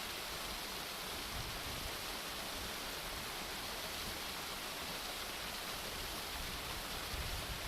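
Steady rushing of a waterfall heard from a clifftop, an even hiss of falling water. A low rumble begins to creep in near the end.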